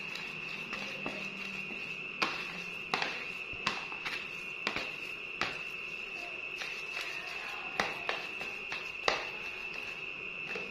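A steady high-pitched whine held throughout, with about a dozen sharp knocks and taps at irregular times over it.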